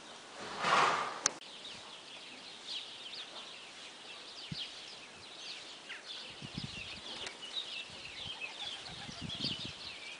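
Many small birds chirping, short quick chirps repeating over and over, with low soft thumps in the second half. About half a second in, a brief loud rush of noise, the loudest thing, followed by a sharp click.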